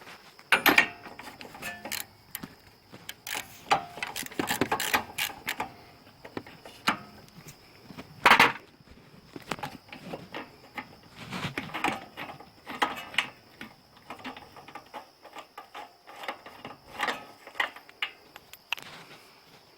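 Irregular clicking, tapping and clattering of hand tools and metal parts on a seized small engine, as the spark plug is got out to put oil down the plug hole. A faint steady high whine runs underneath.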